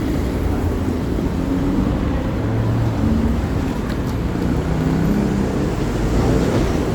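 Road traffic on a city street: a steady low rumble of vehicles passing and running.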